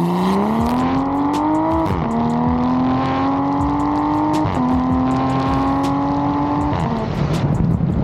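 Car engine accelerating hard through the gears: the engine note climbs, drops with an upshift about two seconds in and again about halfway, climbs once more, then the driver lifts off near the end and the exhaust breaks into a rough, crackling burble.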